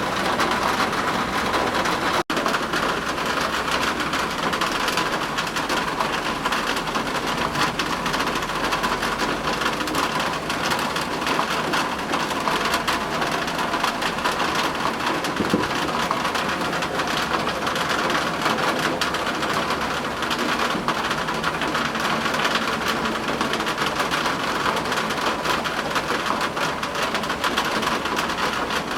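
Steady rain falling, with low rumbles of thunder in a storm. The sound cuts out for an instant about two seconds in.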